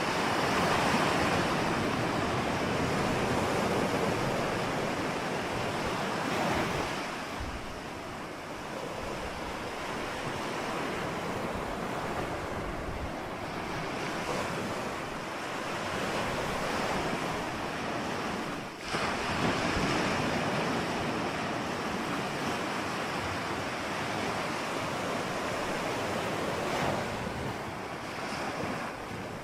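Ocean surf: waves breaking and washing onto a shore in a continuous rush of water that swells and eases every several seconds.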